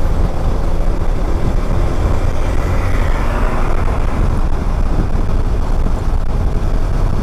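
Riding a motorcycle in road traffic: a steady loud rumble of wind on the body-mounted mic mixed with engine and tyre noise, and the sound of surrounding cars.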